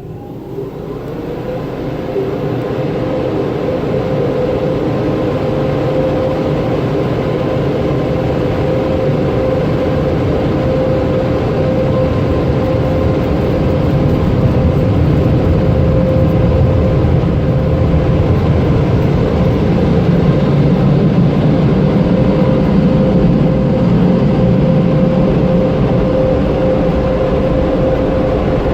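Automatic car wash machinery running: a motor finishes winding up at the start, then holds a steady whine over a loud, even rush of noise that builds over the first few seconds and stays level.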